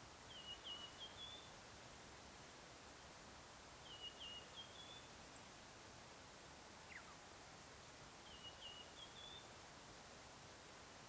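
A small songbird, faint over a steady outdoor hiss, singing a short phrase of about four quick notes three times, about four seconds apart. One brief falling whistle comes a little past halfway.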